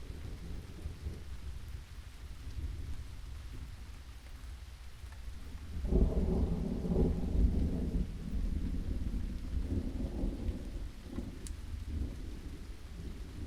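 Thunderstorm: steady rain with a low rumble of thunder, and a louder roll of thunder about halfway through that swells and then slowly dies away.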